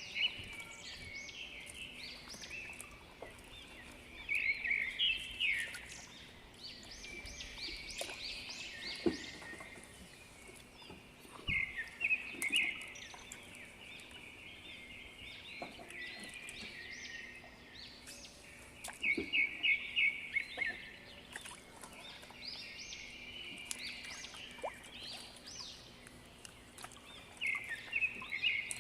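Birds calling outdoors: bursts of rapid chirping trills every several seconds, over a faint steady low hum.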